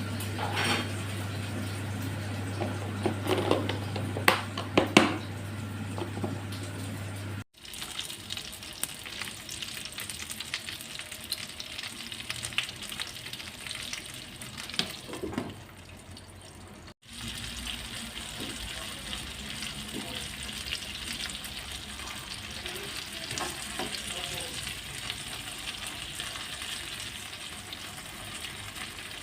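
Food sizzling and crackling as it fries in a pan, with a few clinks and knocks of a utensil in the first seven seconds over a low steady hum. The sound breaks off briefly twice.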